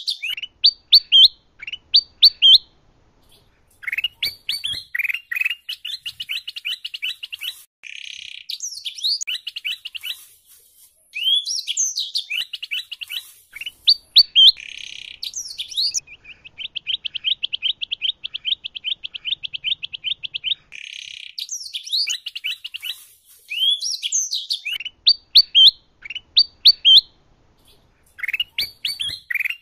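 Kutilang emas bulbul and canary song mixed together: quick rising whistled notes and chirps in short phrases with brief pauses, and a long, fast, even trill in the middle.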